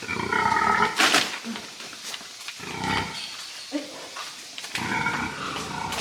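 Pigs calling: three loud calls about two seconds apart, with a sharp knock about a second in.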